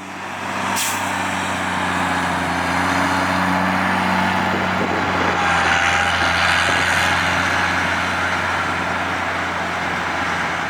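A large truck's engine running steadily, with a broad rushing noise over its low hum; it fades in over the first couple of seconds, and there is a single sharp click about a second in.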